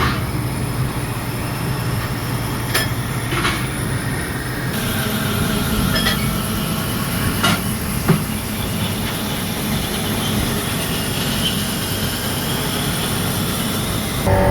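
Workshop machinery running steadily, with a few sharp metallic knocks and clicks; the machine noise changes about five seconds in.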